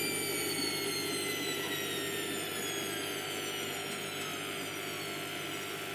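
Hotpoint Aquarius WMF720P washing machine's motor and drum coasting down at the end of the spin cycle: a whine that falls slowly in pitch over a steady rushing hum.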